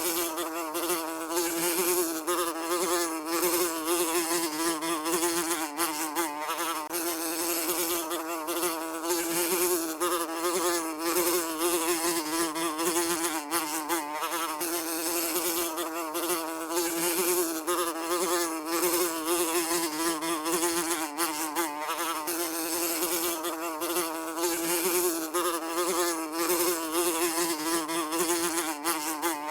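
Housefly buzzing continuously, its wing-beat drone holding a steady low pitch that wavers slightly as it flies.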